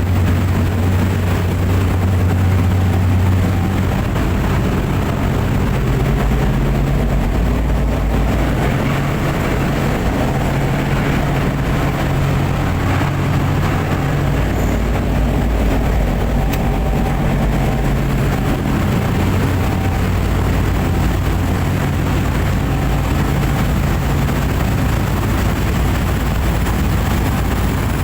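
Steady, loud drone of a fast boat's engines heard on board, a low hum under an even rushing noise. The low hum shifts in pitch about four seconds in, then holds steady.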